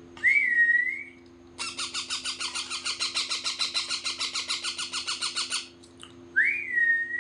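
Pet parrot calling: a gliding whistle, then about four seconds of rapid harsh squawks at roughly seven a second, then another gliding whistle near the end.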